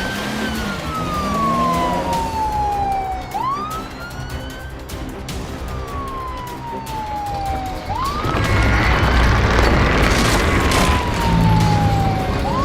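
Police car siren wailing, each cycle a quick rise followed by a slow fall, repeating about every four and a half seconds. From about eight seconds in, a louder rough rumble builds up underneath it.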